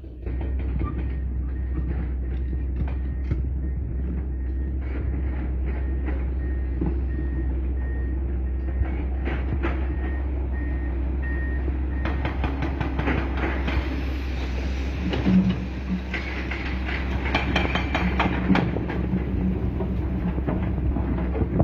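Excavator engine running steadily with a low rumble, with repeated metal clanks and knocks from the machine working; these grow busier in the second half. For about the first twelve seconds a high, regular beeping runs over it.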